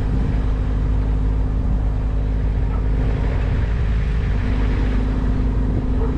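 An engine running steadily, a constant low drone whose pitch steps down slightly about four seconds in.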